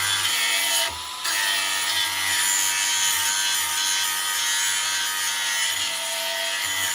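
Power-driven buffing wheel running steadily with a lawn mower blade's edge held against it, a motor whine under a rough hiss of metal on the wheel. The contact eases off briefly about a second in.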